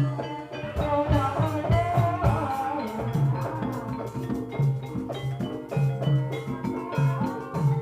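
Javanese gamelan music: metallophones ringing out a repeating pattern over hand-drum strokes, with a wavering melody line between about one and three seconds in.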